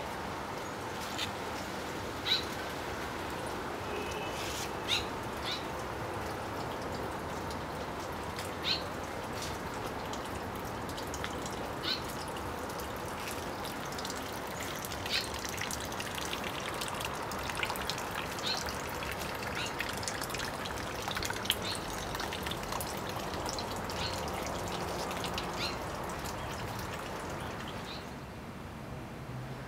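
Outdoor ambience of small birds giving short, sharp chirps every second or two over a steady background hiss. The chirps and hiss fall away near the end.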